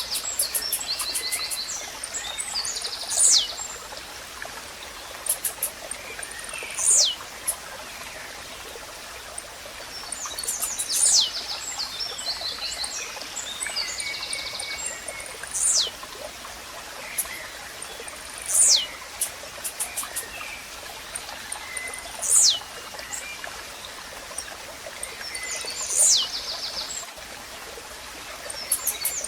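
Blue-black grassquit (tiziu) singing, repeating its short, sharp downward-sweeping call about every three to four seconds. Other birds chirp and a faint trickle of water runs underneath.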